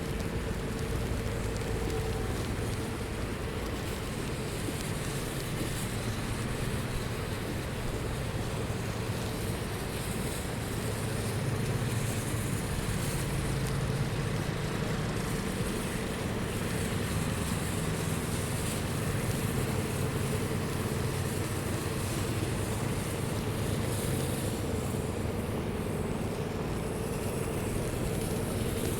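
City street traffic noise: a steady wash of engines and tyres on snowy, wet streets, with a faint steady hum underneath.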